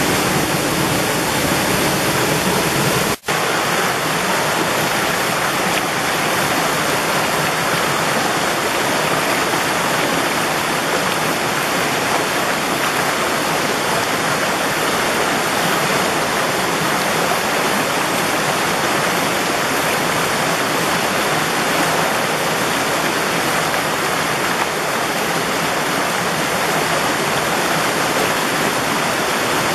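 Water of a mountain valley stream rushing steadily, with a momentary break in the sound about three seconds in.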